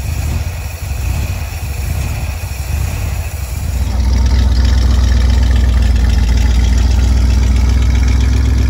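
1967 Corvette C2's small-block V8 idling steadily. About four seconds in it becomes louder and deeper, heard from behind the car at the exhaust.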